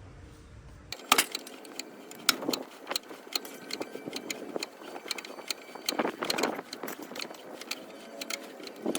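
A run of irregular metallic clinks and knocks, like tools and metal parts being handled and struck, starting sharply about a second in, with the loudest hits just after that and again about six seconds in.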